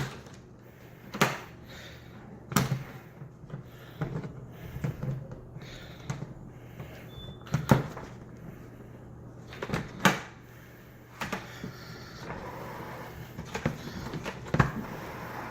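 Handling noise: scattered sharp knocks and clunks, about six loud ones spaced irregularly, with softer rustling and scraping between them.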